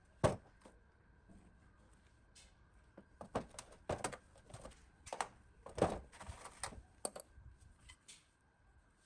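Knocks and clunks of parts and tools being handled during the pump restoration: one sharp knock just after the start, then a run of irregular knocks a few seconds in.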